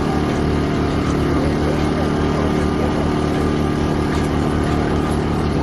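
A small engine running steadily, with an even low pulsing beat.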